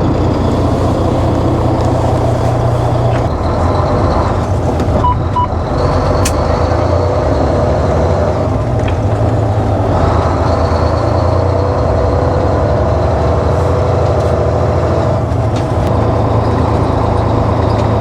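2007 Volvo semi-truck's diesel engine running steadily. Two short beeps sound about five seconds in.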